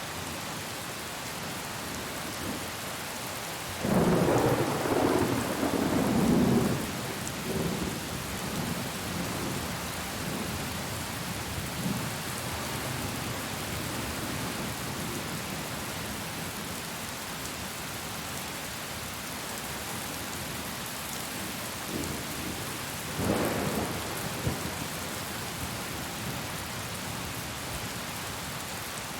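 Steady heavy rain hissing, with thunder rumbling twice: a long, loud roll a few seconds in and a shorter one near the end.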